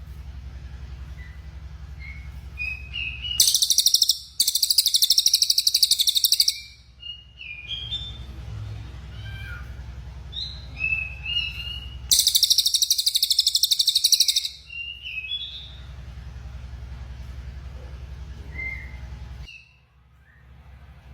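Cililin coklat, a small brown songbird, giving short high chirps and two loud, rapid buzzing trills, one about three seconds in and another about twelve seconds in, each lasting two to three seconds. A steady low hum runs underneath and stops shortly before the end.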